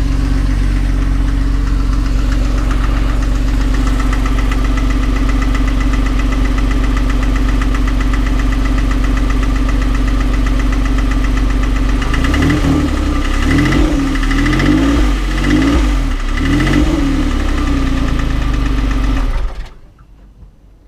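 Porsche 911 997.1 flat-six engine idling with a knocking sound, then revved in several short blips before settling back to idle and being switched off near the end. The owner links the knock to bore scoring.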